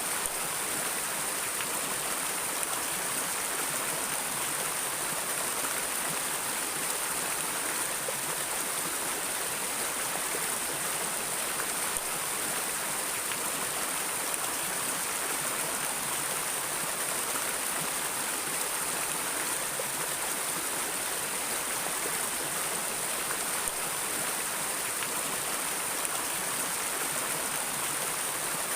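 River water flowing steadily over rocks, a constant even rush without a break.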